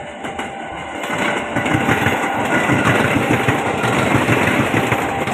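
Train passing close by: a loud, rushing rattle of wheels on rails that builds about a second in and holds.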